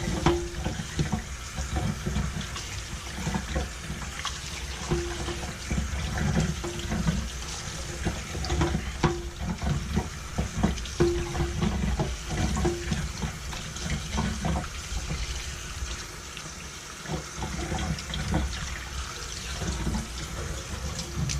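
Kitchen tap water running over brined chicken pieces in a colander, rinsing the excess brine off, with irregular knocks and clatter as the pieces and colander are handled.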